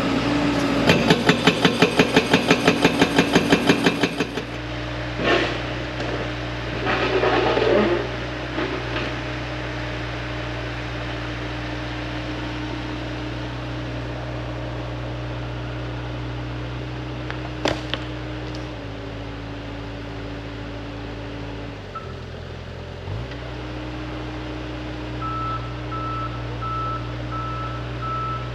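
Hydraulic breaker on a large excavator hammering rock with rapid, even blows, about five a second, stopping about four seconds in. The excavator's diesel engine then runs steadily, dipping in pitch twice, and a repeating alarm beep starts near the end.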